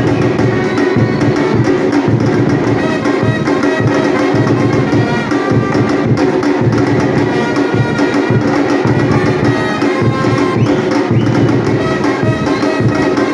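Batucada percussion ensemble playing: drums and other percussion in a dense, unbroken rhythm, with sustained pitched instrument tones over it.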